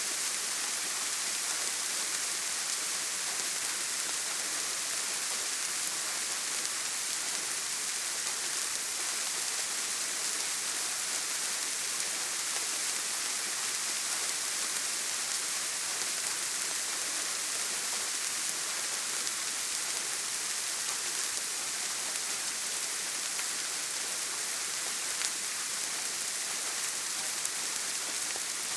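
Heavy rain falling on a tin roof, a steady, even hiss.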